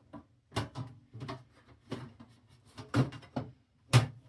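Irregular clicks and knocks from handling the CD changer's case and parts during reassembly, with the loudest knock near the end.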